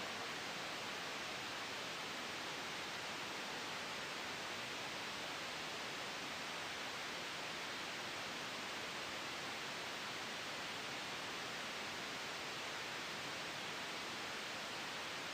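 Steady white noise blended with a soft wind sound: an even, unchanging hiss, strongest in the upper-middle range.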